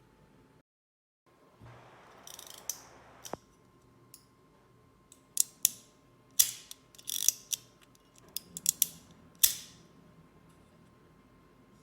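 Sharp mechanical clicks of a Penti half-frame camera's spring-driven two-leaf blade shutter being worked by hand, cocked and fired over and over: about ten clicks at irregular intervals.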